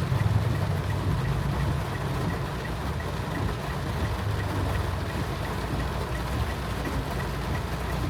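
Car cabin in heavy rain: steady low rumble of the engine and road, with the hiss of rain over it. A faint, regular ticking repeats about three times a second throughout.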